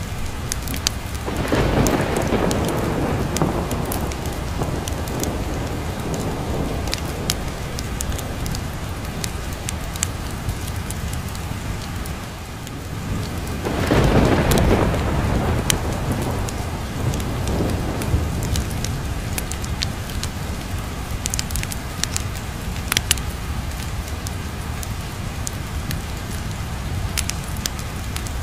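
Steady heavy rain with two rolls of thunder, one starting about a second and a half in and another about 14 seconds in, each swelling and dying away over a few seconds. Scattered sharp crackles run through the whole stretch.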